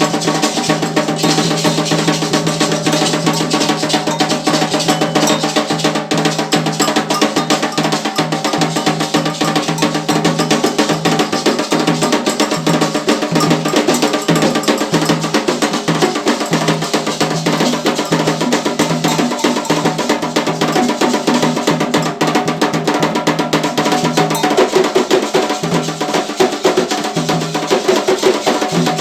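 Candomblé ritual percussion: atabaque hand drums beating a continuous, dense rhythm, with a sharper wood-block-like bell part on top.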